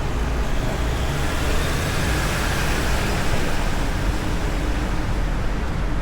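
Road traffic noise with a steady low rumble. A passing vehicle swells and fades about halfway through.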